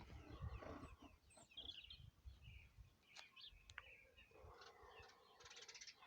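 Faint bird chirps: a few short, scattered high calls over a quiet background with a low rumble.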